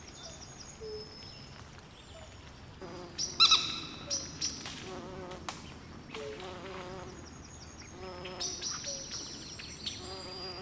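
Night swamp ambience: frogs and insects calling in many short chirps and wavering trills at different pitches, with one louder, falling call about three and a half seconds in.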